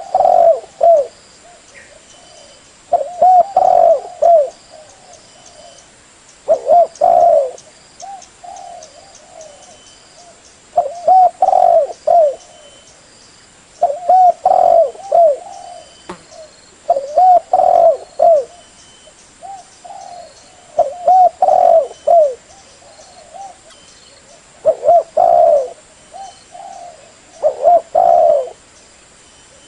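Spotted dove cooing: a short phrase of a few notes, repeated about every three and a half seconds. Faint high chirps sound in the background.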